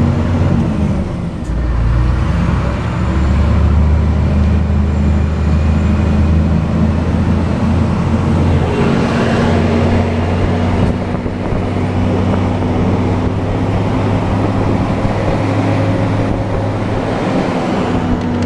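Scania R420 truck's diesel engine running as the truck drives, a steady low drone with road noise, its pitch shifting briefly about two seconds in.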